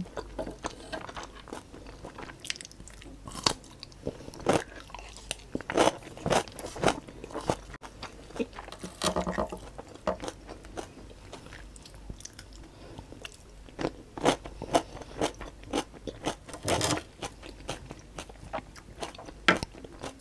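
Close-miked chewing of Samyang Jjajang black bean instant noodles, with many irregular sharp clicks from the mouth and from wooden utensils against the plate.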